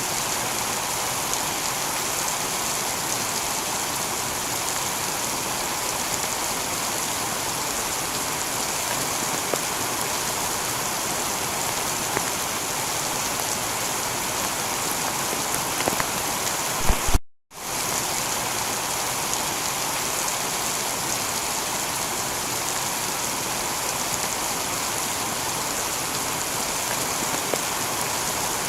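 Steady heavy rain falling on a tiled roof, with scattered drop ticks. A little over halfway through there are a couple of sharp knocks, then the sound cuts out for a split second before the rain resumes.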